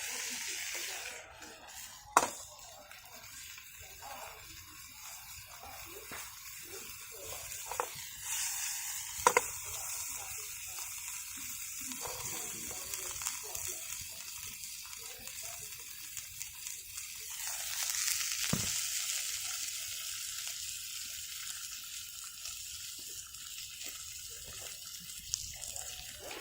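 Food sizzling in a pan over a campfire, a steady hiss that swells twice, with a few sharp clicks of utensils against the pan.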